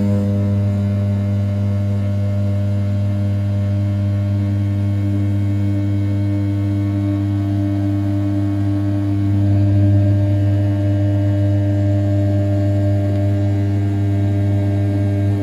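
500 W brushless spindle of an RZ420 CNC mill cutting A7075 aluminium at 6000 rpm while roughing the outer profile: a steady hum with strong pitched tones. It gets slightly louder about ten seconds in.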